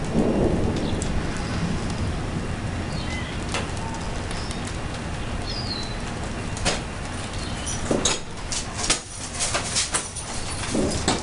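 Thunder rumble dying away at the start, over a steady hiss. A few short, falling bird chirps come through, and in the last few seconds there is a run of sharp clicks and flutters.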